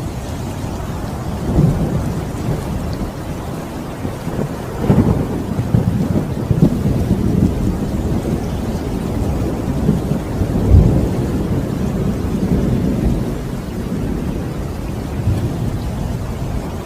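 Steady rain during a thunderstorm, with low rumbles of thunder rolling in several times. The loudest rumble comes about eleven seconds in.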